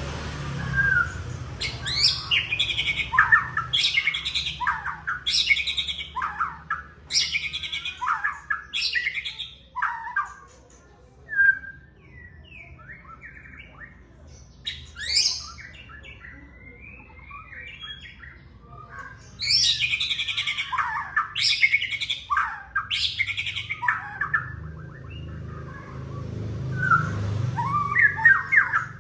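White-rumped shama (murai batu) singing loud, varied whistled phrases in two long bouts, with a quieter stretch of scattered short calls in the middle, over a faint steady low hum.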